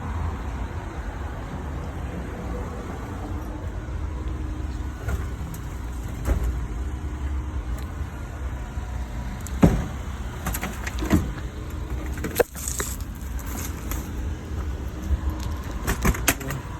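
Steady low rumble of a running engine, with a few sharp knocks and clanks in the second half.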